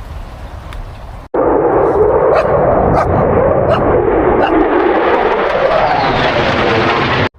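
Jet aircraft roar, loud and even, cut in abruptly about a second in, swelling and easing slightly before it cuts off near the end. A dog barks a few times over it.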